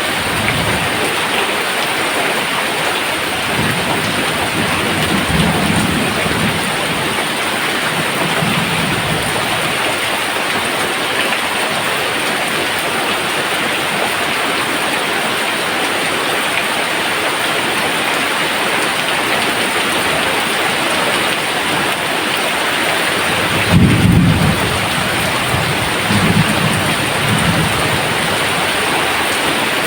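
Steady rain pouring, with several low rolls of thunder: a couple in the first ten seconds and the loudest about three-quarters of the way through, followed by a weaker one.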